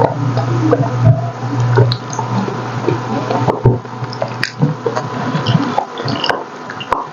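Close-up wet chewing and lip-smacking of someone eating tender, gelatinous braised pork hock, with many small squishy clicks. A low hum sounds for about the first two seconds.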